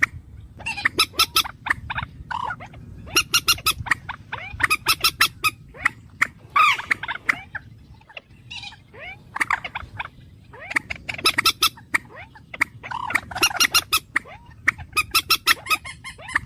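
Bird calls: bursts of rapid, sharp repeated notes, each burst about a second long, over a low steady background hum.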